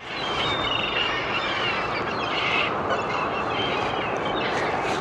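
Many birds calling, lots of short overlapping calls, over a steady rushing background noise.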